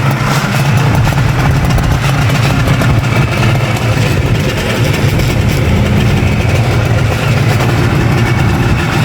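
1974 Suzuki GT185's two-stroke, twin-cylinder, twin-carburettor engine running steadily, heard through its exhaust.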